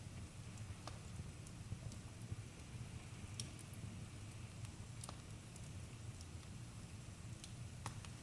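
Campfire burning with a low, steady rumble and sparse sharp crackles and pops of the wood, a handful over a few seconds.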